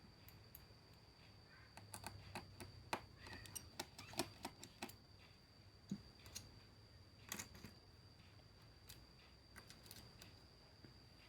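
Scattered small clicks and taps of tools and parts being handled while a Xiaomi Mi Play smartphone is taken apart. They come most thickly in the first half, with a few more later.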